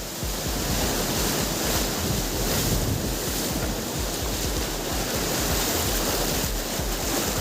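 Steady rushing roar of wind and water, with wind buffeting the microphone as a low rumble.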